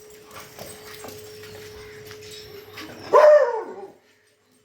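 A dog gives one loud bark about three seconds in, its pitch dropping at the end, after a few quieter seconds.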